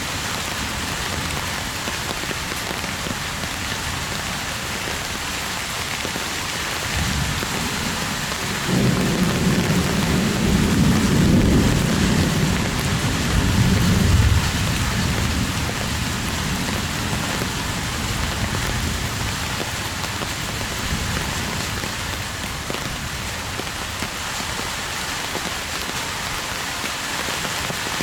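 Heavy rain falling steadily, with a low rumble of thunder swelling from about nine seconds in and fading by about fifteen seconds.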